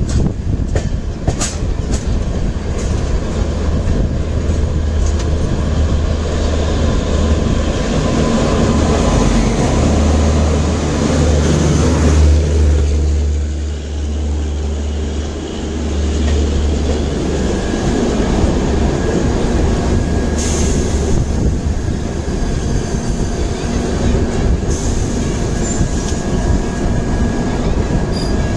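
Rajdhani Express train running on the rails: a steady loud rumble with wheel clatter, its low rumble easing briefly about halfway through. A thin high whine comes in about two-thirds of the way in.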